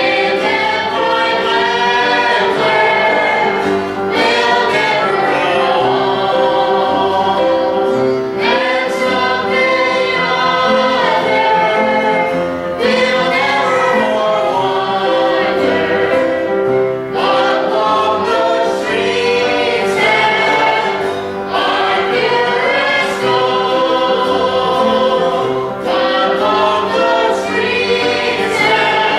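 Group of singers performing a gospel song in harmony, with steady held notes underneath.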